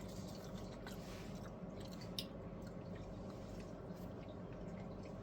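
A person chewing a bite of a savoury toaster pastry, with small soft clicks and mouth sounds over a steady low hum; one sharper click comes about two seconds in.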